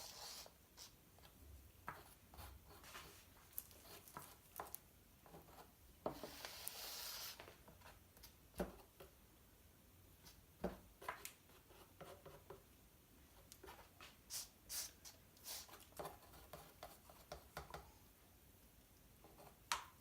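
Quiet handling sounds of paint bottles and cups while colours are added for an acrylic pour: scattered light taps and clicks, with a brief hiss about six seconds in.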